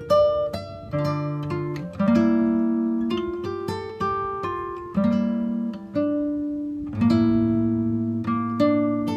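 Background music on acoustic guitar: picked single notes and strummed chords, with a fresh chord struck about every second or two.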